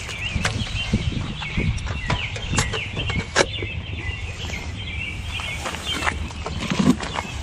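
Small birds chirping continuously, with scattered clicks and knocks from close by.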